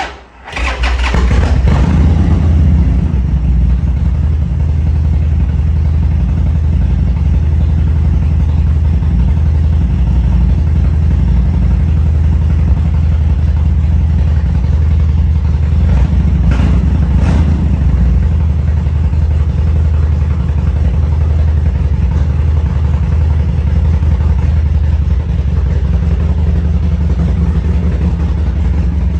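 2014 Harley-Davidson Sportster XL1200C's air-cooled V-twin starting: it fires about half a second in, then settles into a steady idle. Two short clicks come a little past the middle.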